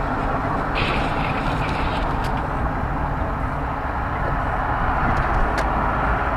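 Steady road and engine noise of a car driving, with a brief higher hiss about a second in and a couple of faint clicks.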